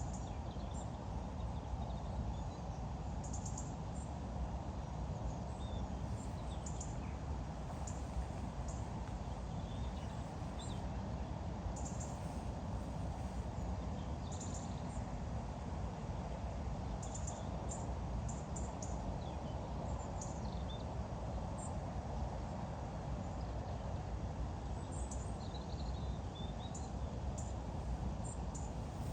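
Small birds chirping now and then, in short high calls, over a steady low background rumble.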